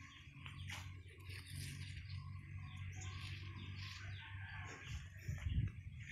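Birds chirping in the background over a low steady hum, with a low thump on the microphone about five and a half seconds in.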